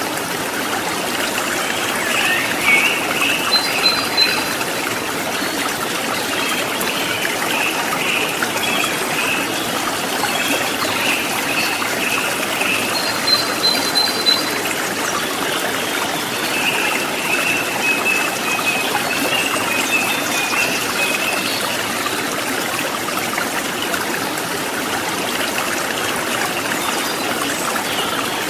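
Stream water trickling and splashing steadily, with high chirping calls over it that come in broken runs and peak twice.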